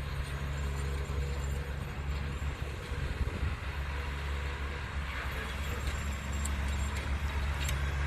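Tractor engine running with a steady low drone.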